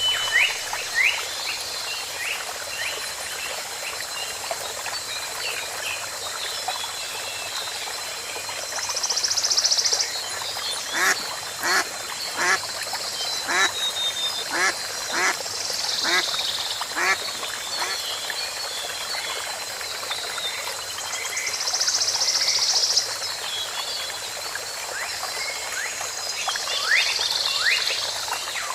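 Repeated short animal calls, about a dozen at roughly two a second through the middle, over a steady hiss with a few brief high buzzing bursts.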